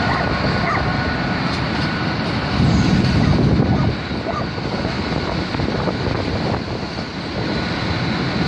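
A train running past as steady, continuous rail noise, swelling louder about three seconds in.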